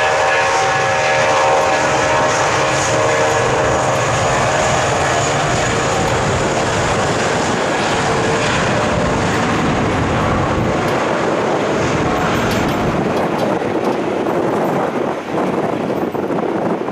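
Airbus A320-232's IAE V2500 turbofan engines at takeoff power: a loud, steady jet roar with a cluster of whining tones at first that fade out within about five seconds, leaving a broad roar that eases slightly near the end.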